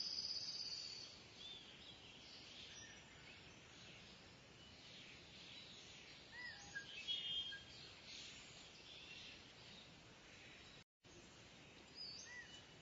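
Faint birdsong: scattered short high chirps and trills with small arched whistled notes over a steady outdoor hiss, a little louder at the start and around the middle, with a brief dropout near the end.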